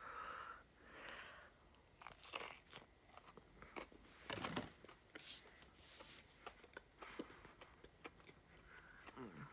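Faint close-up chewing of chicken strips: wet mouth clicks and smacking at irregular moments, with a louder one about four and a half seconds in.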